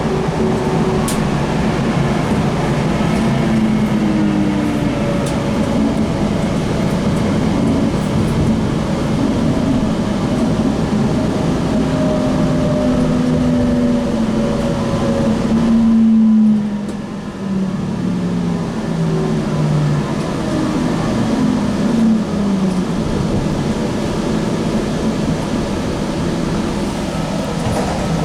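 Light rail car running on the track: a steady rumble with a motor whine that glides and steps up and down in pitch. The level dips briefly a little over halfway through.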